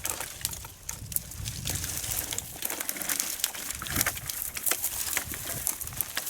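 Brushwood and branches crackling and rustling: many quick, irregular snaps over a low rumble.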